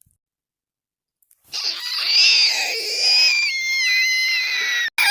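A long, high-pitched scream that wavers in pitch, starting about a second and a half in; it breaks off for an instant near the end and a second scream begins, sliding steadily down in pitch.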